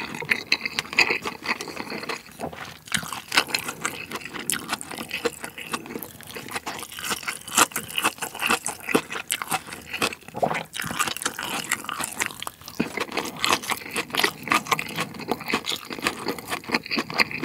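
Close-miked chewing of food, with a quick run of crunches and small clicks.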